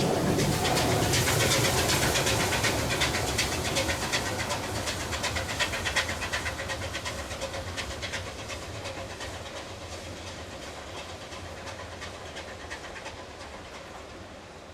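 A train hauled by Ivatt Class 2 tank engine 41313 running away, its wheels clicking quickly over the rail joints, the sound fading steadily as it recedes.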